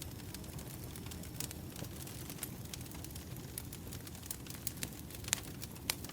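Burning firewood crackling: irregular sharp pops and snaps over the fire's steady low rumble, with two louder pops near the end.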